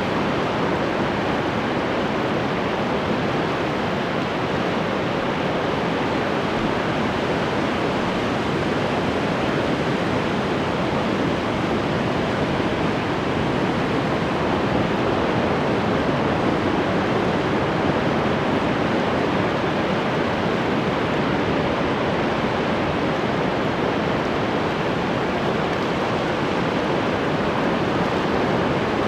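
Ocean waves washing on the shore: a steady, even rush of surf with little rise and fall in loudness.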